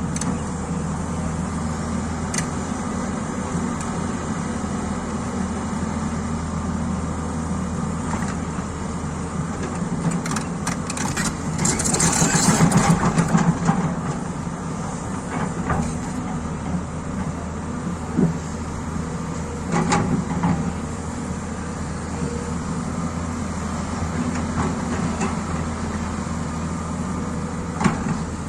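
Excavator engine running steadily, with a few sharp knocks scattered through and a louder stretch of hiss and rattle for about two seconds near the middle.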